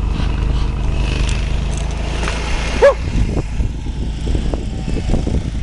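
A dog barks once about three seconds in, over a steady low rumble.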